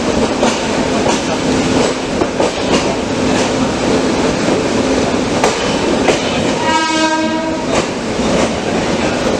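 Running noise of an Indian Railways express train on the move, with wheels clicking over rail joints at uneven intervals. About two-thirds of the way through a train horn sounds once for about a second.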